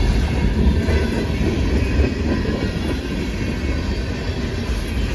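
Freight cars of a long freight train rolling past: steel wheels on rail making a steady, loud rumble.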